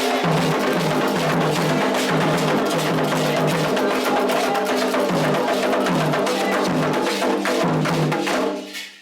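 Candomblé ritual music: a fast, dense rhythm on drums and a sharp, wood-block-like percussion instrument, with sustained pitched voices or tones over it. The music breaks off near the end.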